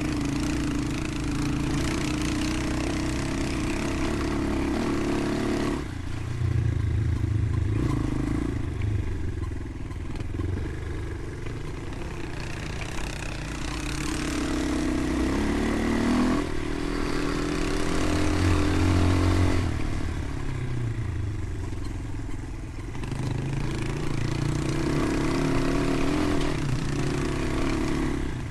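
Motorcycle engine running under way, its revs rising and falling several times as it is ridden.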